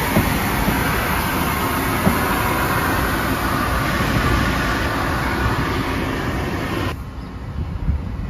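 Amtrak ACS-64 electric locomotive and its train passing close by, a steady rumble and hiss of wheels on the rails. About seven seconds in, the noise drops sharply to a fainter, distant train approaching.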